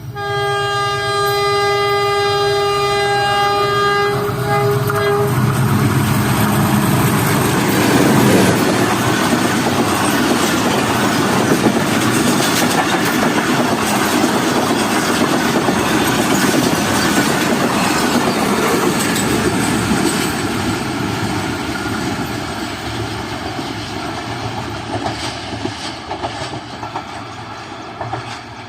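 Pakistan Railways diesel locomotive sounding its horn in one long, steady blast lasting about five seconds as the Mehar Express approaches. The train then passes close by, its engine and wheels rumbling loudly with clickety-clack over the rail joints, and dies away slowly as it recedes.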